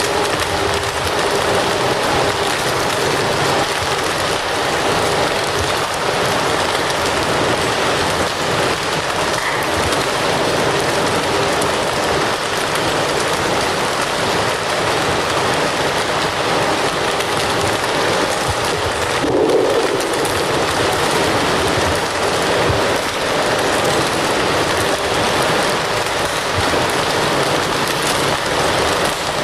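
Fire crackling steadily, a dense, even crackle and hiss.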